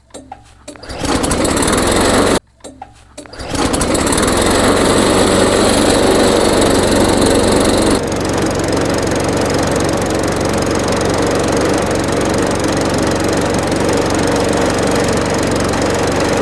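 Lawn mower's 140cc Powermore single-cylinder engine running steadily with the mower shaking hard, which the owner puts down to an unbalanced blade. The sound drops out twice, briefly, in the first few seconds.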